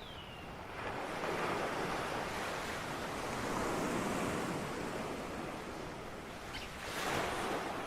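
Ocean surf: waves breaking and washing in a steady hiss, swelling about a second in, again around the middle and once more near the end.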